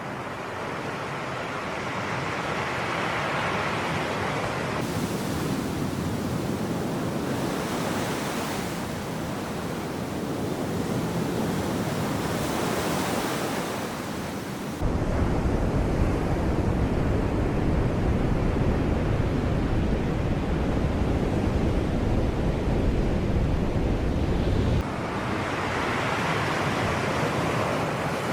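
Sea waves washing in, the wash swelling and fading every few seconds. About halfway through, a heavy low rumble sets in suddenly for about ten seconds, then cuts off just as suddenly.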